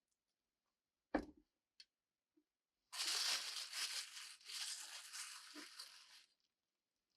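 A single dull knock about a second in, then about three seconds of rustling, tearing noise, like paper or packaging being torn or crumpled.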